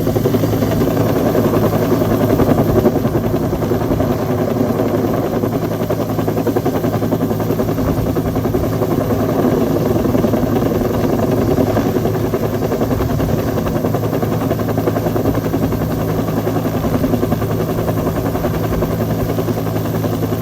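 Bell UH-1 Huey helicopter running steadily, its turbine engine and two-blade main rotor making a continuous low hum with a fast chop.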